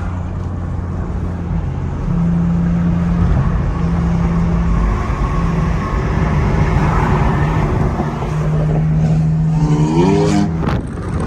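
Car engine running at a steady pitch while driving, the pitch stepping up about two seconds in. Near the end it revs quickly upward, then drops back.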